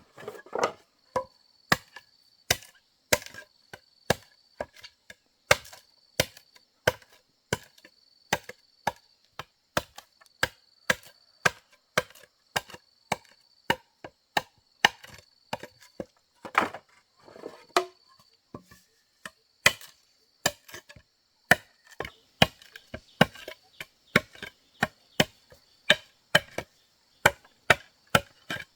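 Repeated sharp chopping strikes on wood, at a steady working rhythm of about two a second.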